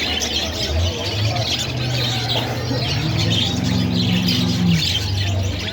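Many small caged birds chirping and twittering at once in a dense, overlapping chorus. A low steady hum runs beneath it from about a second in until just before the end.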